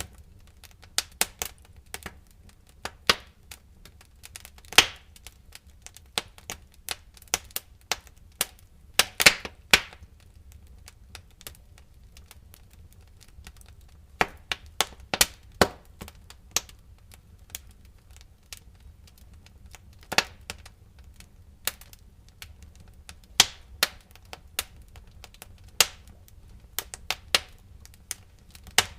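Wood fire crackling in a fireplace: irregular sharp snaps and pops, some in quick clusters, over a steady low rumble of the burning fire.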